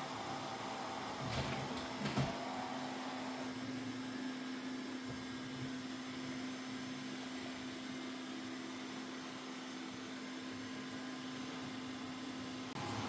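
Mova Z60 robot vacuum-mop running its cleaning pass, a steady motor whir with a low hum. There are a couple of short knocks about one and a half and two seconds in.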